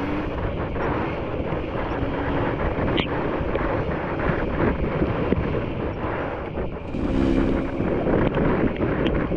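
KTM enduro motorcycle engine running as the bike is ridden along the trail, with wind buffeting the microphone.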